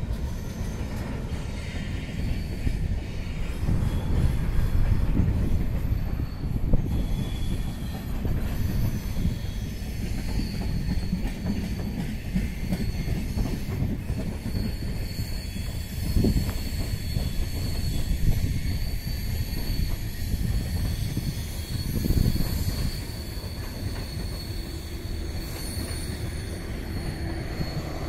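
Train passing close by on the track: a steady heavy rumble of wheels on rails, with a thin high wheel squeal running over it through the second half.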